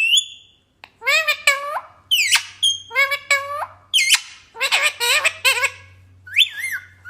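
Parrot calling in a string of short, high, sliding squawks that come in quick clusters with brief pauses between them.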